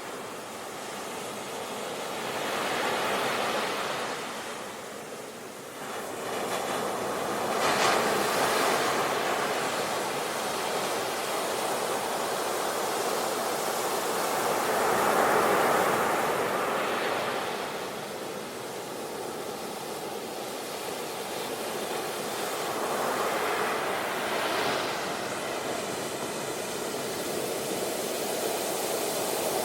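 Sea waves breaking on the shore, the surf swelling and falling away every few seconds.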